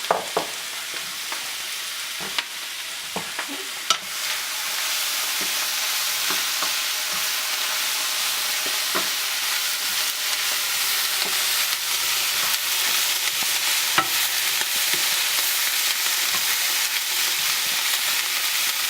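Sliced bell peppers and onions sizzling in oil in a hot pan at medium-high heat. There are scattered clicks and scrapes of a utensil stirring them, and the sizzle grows louder about four to five seconds in.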